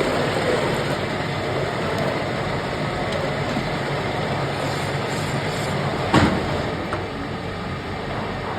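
Metal lathe running steadily as it turns a submersible pump motor rotor, a low hum under a steady machining noise, with one sharp knock about six seconds in.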